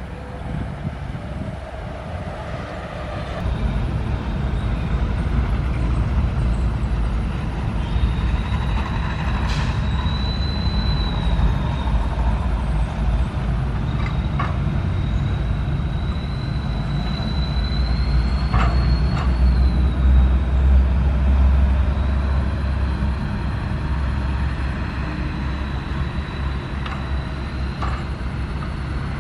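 SANY SY135F excavator's diesel engine working under load, rising about three seconds in, with a high, wavering hydraulic whine. A handful of sharp knocks punctuate it.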